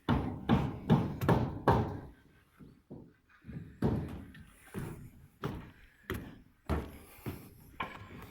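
A series of dull knocks, about a dozen: a quick run of loud ones in the first two seconds, then quieter knocks spaced half a second to a second apart.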